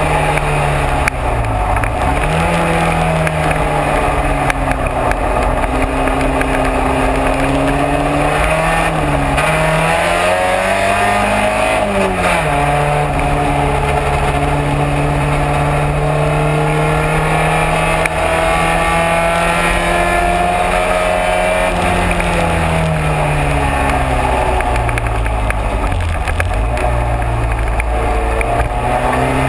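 Race car engine running hard through a lap, its pitch climbing and falling with the throttle and gear changes, with clear drops at about two, nine and twenty-six seconds in.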